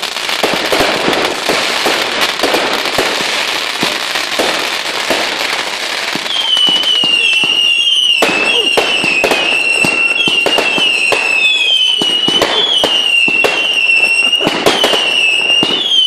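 Fireworks going off: dense crackling and popping for the first six seconds or so, then a rapid run of overlapping whistling fireworks, each whistle dipping slightly in pitch, among sharp bangs.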